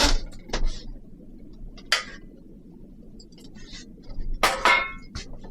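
Several separate clinks and knocks of hard objects being handled and set down, the loudest cluster about four and a half seconds in with a short ring.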